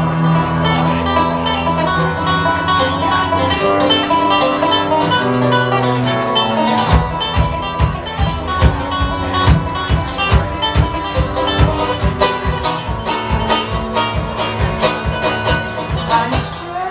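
A band playing an instrumental passage with plucked strings and guitar over a bass line. About seven seconds in, a steady beat of sharp percussive hits comes in.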